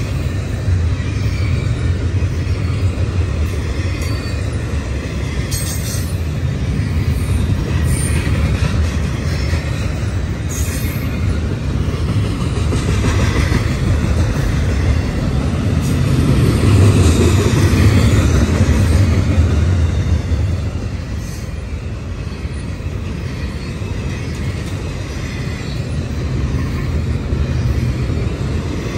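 Double-stack intermodal freight train rolling past, its container-laden well cars making a steady low rumble of steel wheels on rail that swells louder a little past halfway through.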